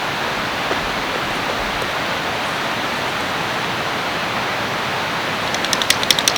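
Steady rushing of a nearby river, an even wash of water noise. A quick run of light clicks comes near the end.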